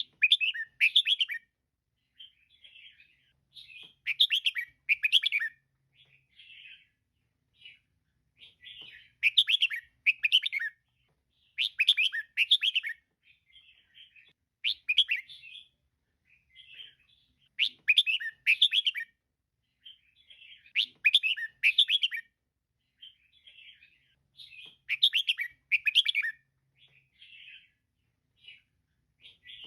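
Female red-whiskered bulbul calling: short phrases of quick chirping notes repeated every couple of seconds, louder phrases alternating with softer chatter, with silence between.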